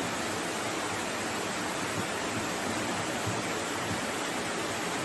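Steady rushing of water, an even noise with no breaks or distinct events.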